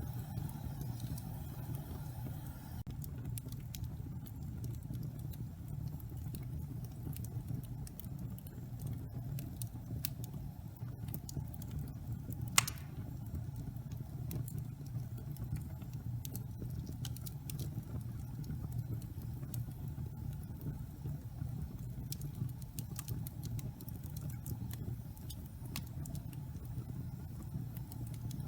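Wood fire burning in a fireplace: a steady low rumble of flames with scattered crackles throughout and one loud pop about twelve seconds in.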